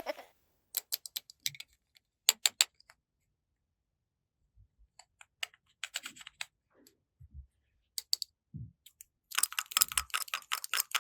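Small plastic toy pieces clicking and tapping as they are handled, in short scattered clusters with silence between, and a denser run of clicks near the end.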